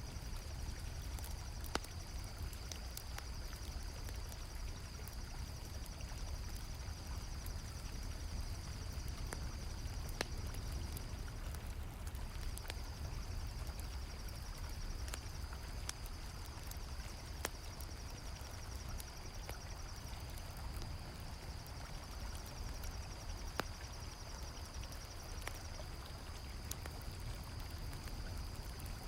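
Night ambience of crickets trilling in a steady high pulsing chorus, a campfire crackling with sparse sharp pops, and the low steady rush of flowing river water. The cricket trill drops out briefly about twelve seconds in.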